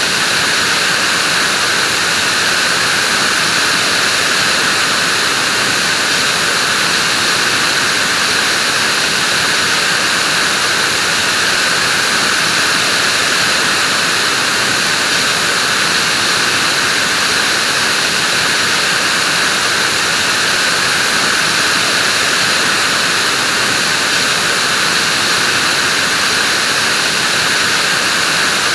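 Vacuum cleaner running continuously, a loud, even whooshing hiss with no change in pitch or level, used as white noise for sleep.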